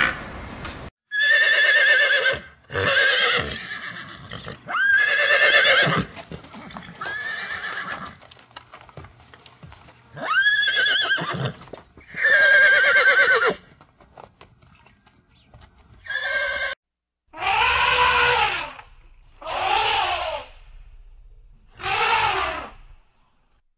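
A series of animal calls: horses neighing and whinnying several times, then an African elephant trumpeting three or four times near the end.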